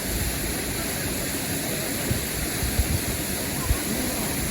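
Steady rush of falling water from a river waterfall, with a few brief low bumps in the middle.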